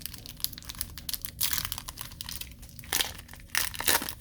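Foil wrapper of a hockey card pack crinkling as it is handled and torn open, with sharper crackles about three and four seconds in.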